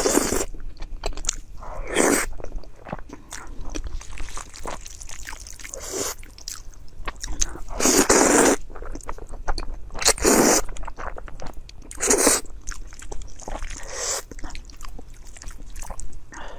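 Close-miked eating sounds: wet chewing and biting of rice and noodles, with loud bursts of mouth noise about every two seconds and small clicks in between.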